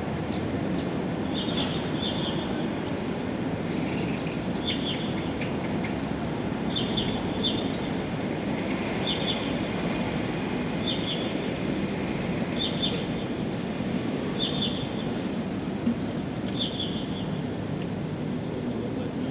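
A songbird repeating a short, high chirping call about every two seconds, each call a quick double note, over a steady rushing background noise.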